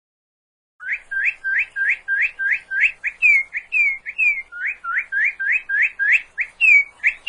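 A bird calling in a rapid run of clear, whistled notes, about three a second, most of them quick rising sweeps with a few falling slurs mixed in; it starts about a second in.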